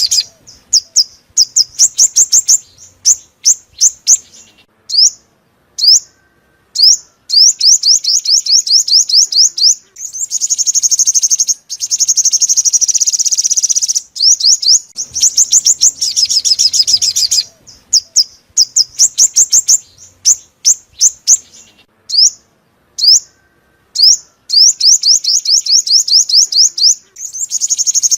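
Sunbird song with a purple throat and yellow belly, the bird sold as the 'five-colour' sunbird: rapid runs of high, sharp chirps and dense buzzy trills in bursts, broken by short pauses.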